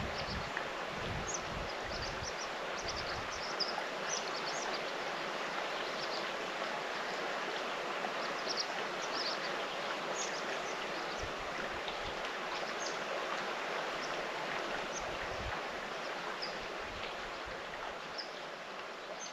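Steady rushing noise of running water, with short high chirps scattered through it and low wind buffets on the microphone near the start and again around the middle.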